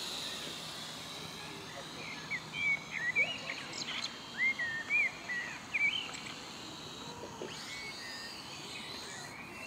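Songbird singing: a run of short whistled chirps between about two and six seconds in, over steady outdoor background noise.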